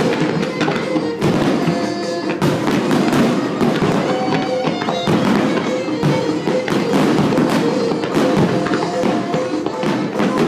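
Music playing, with fireworks shells bursting repeatedly over it.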